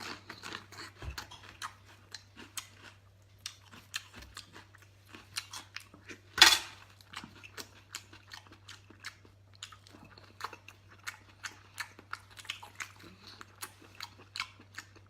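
A person chewing and biting food close to the microphone: a fast run of small wet clicks and crunches, with one loud crunch about six and a half seconds in. A steady low hum runs underneath.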